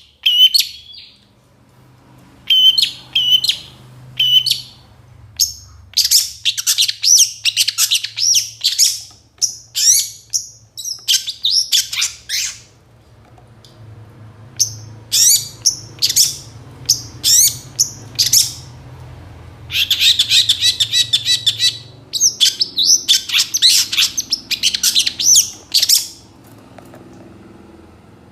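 Long-tailed shrike (pentet) singing in rapid bursts of chirps and trills packed with mimicked phrases of other birds, with short pauses between phrases. A dense, fast run of notes comes about twenty seconds in.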